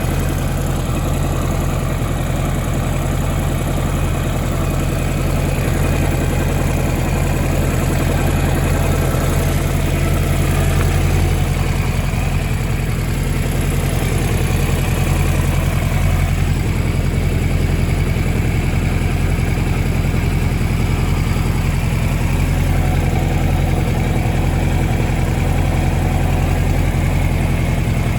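1983 Kawasaki Z1000R2's air-cooled 998 cc inline-four idling steadily.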